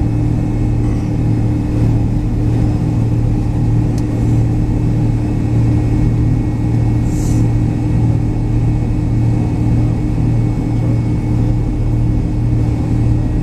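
Cabin drone of a McDonnell Douglas MD-83's tail-mounted Pratt & Whitney JT8D turbofan engines, heard from a rear seat: a steady, loud low hum with two constant tones that don't change.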